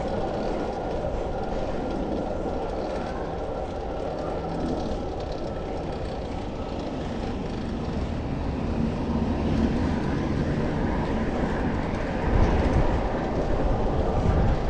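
Steady rumble of city street traffic heard from a moving bicycle, growing louder about twelve seconds in.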